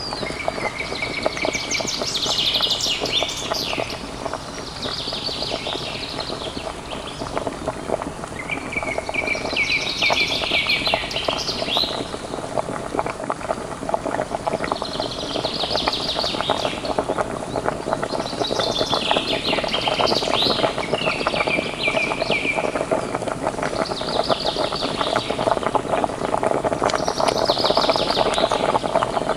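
A miniature pan of fish curry simmering on a tiny wood-fired clay stove, giving a steady dense bubbling and crackling. Over it a bird sings a short chirping phrase every three to four seconds, about eight times.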